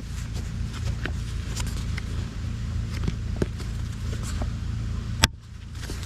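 Small taps and rustles of paper and stickers being handled over a steady low rumble, with one sharp click about five seconds in.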